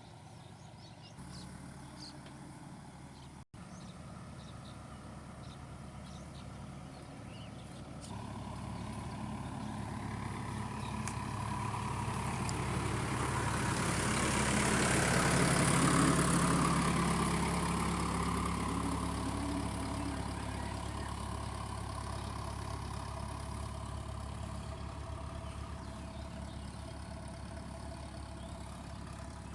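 Heavy diesel machinery engine running steadily, growing louder to a peak about halfway through and then easing off, with a brief dropout near the start.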